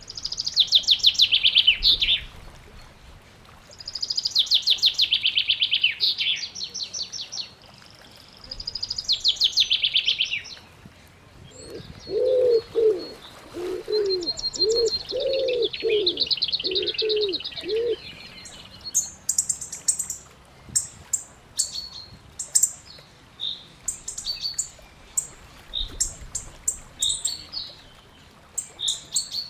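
Birds singing: three loud, rapid trilled songs in the first ten seconds, then a run of about ten low cooing notes, followed by scattered short high chirps.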